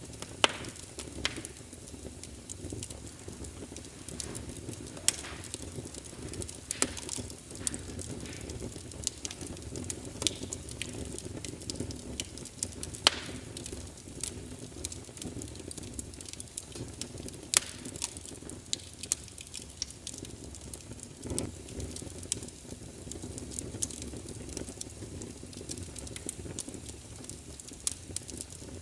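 Wood fire burning in a fireplace: a steady low rumble of flames with frequent crackles and sharp pops, a few of them louder.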